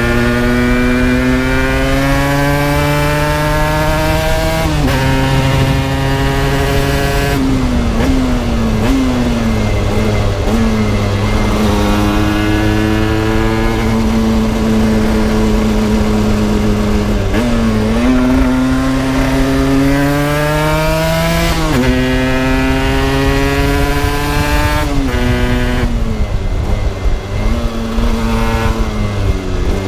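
Aprilia RS 125 two-stroke single-cylinder engine heard onboard under acceleration. Its pitch climbs steadily and drops back sharply at each gear change, several times over, with steady wind and road rush underneath.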